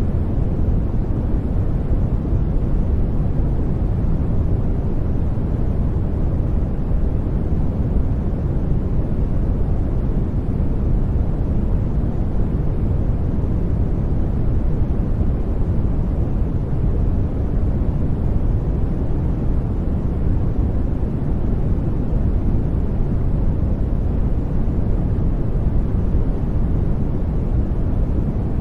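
Steady generated noise track: an even, unbroken deep rush with most of its weight low and little hiss at the top, closer to brown noise than to flat white noise.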